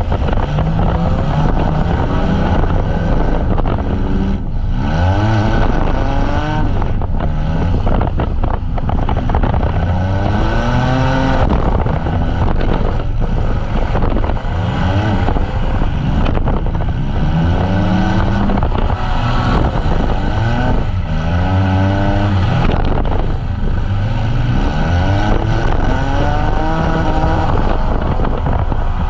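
Demolition derby vans' engines revving hard again and again, each rev climbing in pitch and dropping back every second or two, more than one engine at once, with a few sharp knocks.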